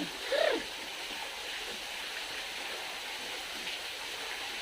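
A bird gives one short call that rises and falls in pitch just after the start, then a steady hiss carries on.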